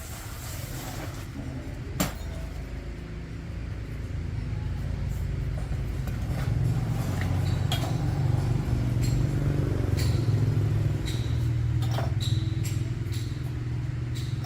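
A small engine running with a steady low rumble, growing louder a few seconds in, with light metallic clinks scattered over it.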